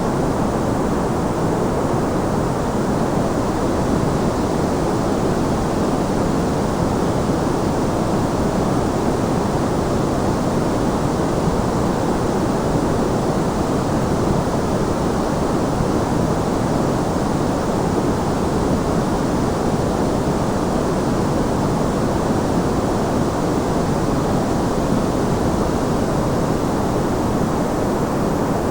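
Steady white noise: an even, unchanging hiss with most of its weight in the low and middle pitches, so it sounds deep and soft rather than sharp.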